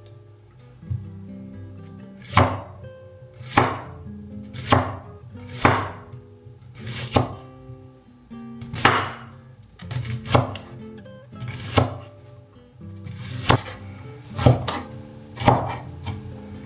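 A kitchen knife chopping food on a cutting board in slow, separate strokes, about one a second, roughly a dozen in all, over soft background music.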